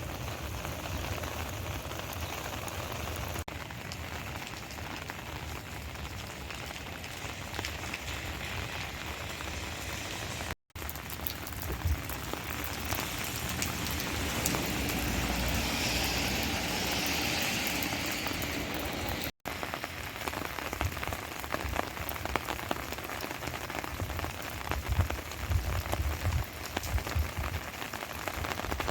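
Steady rain falling, an even patter of drops that breaks off for an instant twice.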